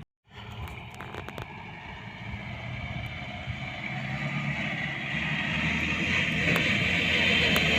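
Mahindra diesel pickup engine labouring under load as it drives up a sand dune, growing steadily louder as it comes closer. A few light clicks come in the first second or so.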